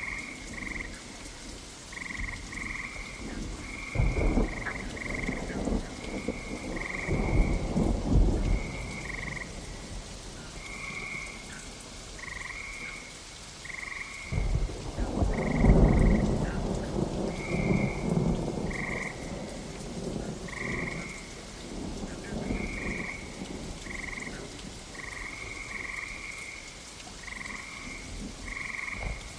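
Steady rain with rumbles of thunder: two shorter rolls in the first several seconds, then a bigger roll about halfway through that swells and fades over a few seconds. Under it all a frog chorus calls continuously in short, closely repeated croaks.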